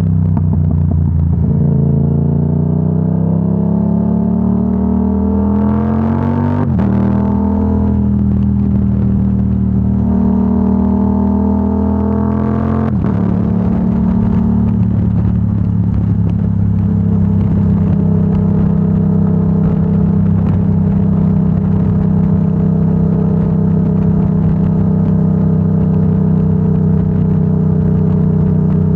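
Yamaha R7's 689 cc parallel-twin through a Yoshimura AT2 full exhaust, accelerating through the gears: the engine pitch climbs and drops sharply at two upshifts, about seven and thirteen seconds in, then holds steady at a cruise.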